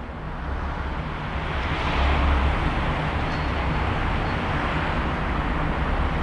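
Steady outdoor vehicle noise: a low engine rumble under a broad hiss, swelling slightly about two seconds in.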